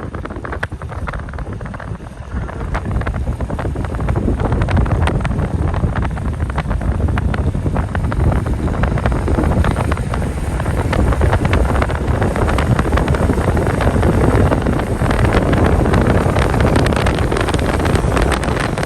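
Loud, steady rushing noise with wind buffeting the microphone, growing louder a few seconds in.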